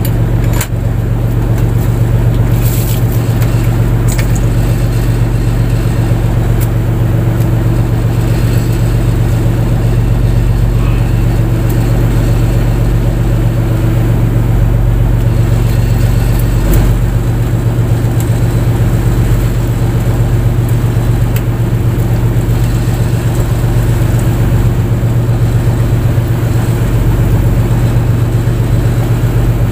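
Fishing boat's engine running steadily at a constant speed, a deep even drone, with a few brief knocks.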